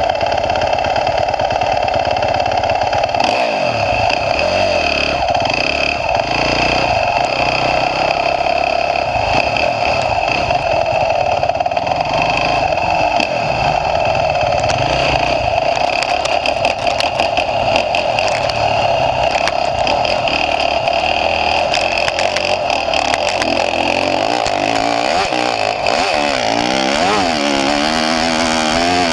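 Motocross dirt bike engine, heard close up from a camera mounted on the bike, running hard and revving up and down, with rising and falling pitch toward the end.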